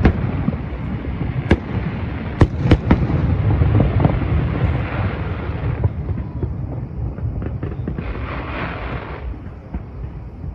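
Aerial fireworks bursting: several sharp bangs in the first three seconds over a continuous rolling rumble, which thins after about six seconds to scattered crackles.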